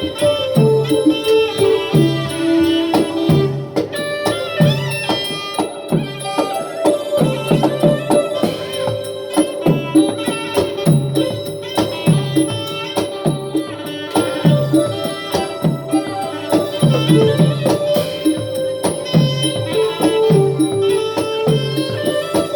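Southern Thai Nora ensemble music: a steady pattern of low drum strokes, about two a second, under held melodic tones and a busy jingling high layer.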